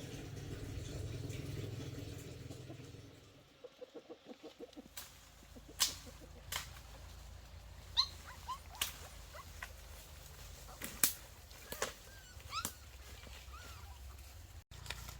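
Short, high rising squeaks from small animals, scattered among sharp clicks and knocks. Around four seconds in comes a quick run of low pulses, after a low rumbling noise at the start.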